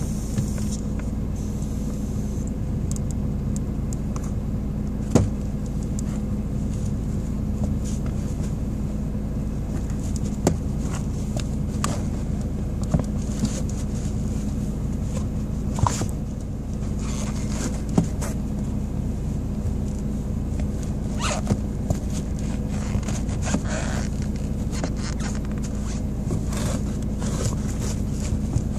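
Car engine running steadily, heard from inside the cabin down in the footwell, with a low even hum. Scattered sharp clicks and scrapes of a high-heeled shoe against the pedals and floor mat.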